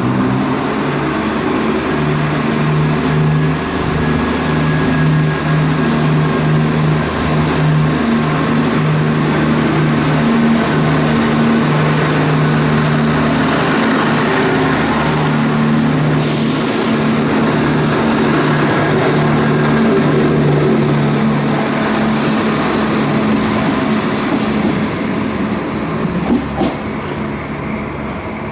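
Class 168 diesel multiple unit with its underfloor diesel engines running, a loud steady engine note with a pulsing low tone that eases off near the end. A few brief high hisses come in the second half.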